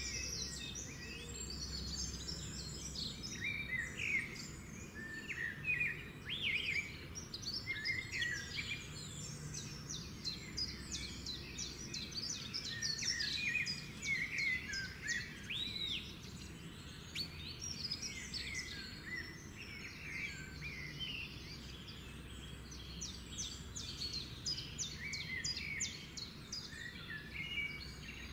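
Many birds chirping and singing in quick, overlapping short calls and whistles, over a faint steady background noise.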